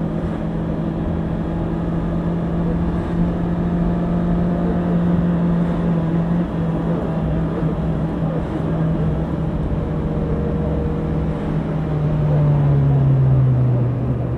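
Honda CBR650R's inline-four engine running at a steady pitch, then falling in pitch about twelve seconds in and settling lower near the end.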